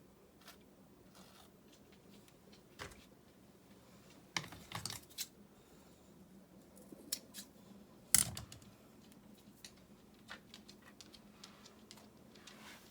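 Scattered light clicks and knocks of handwork, the loudest a sharp knock about eight seconds in.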